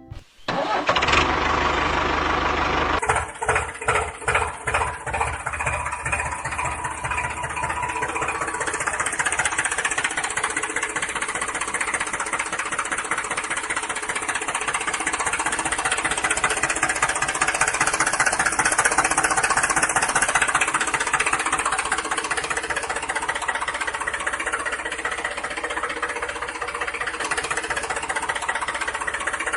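A tractor engine runs, with uneven chugging pulses for a few seconds after it comes in about three seconds in, then runs steadily.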